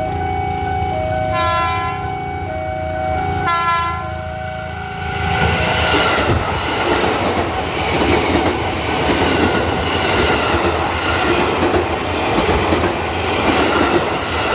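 A level-crossing warning alarm steps back and forth between two tones, with two short train-horn blasts about a second and a half and three and a half seconds in. From about five seconds in, a KRL electric commuter train passes close by, its wheels and carriages rumbling over the rails.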